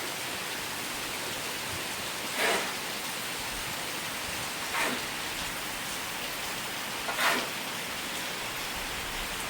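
Steady rain falling, an even hiss, with a short louder rush of noise about every two and a half seconds.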